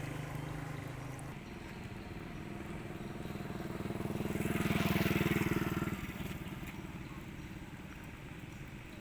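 A motor vehicle engine drones past, growing louder to a peak about halfway through and then falling away.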